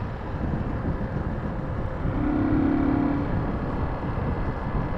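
Motorcycle engine running with wind and road noise while riding. About two seconds in, a steady tone lasts for about a second.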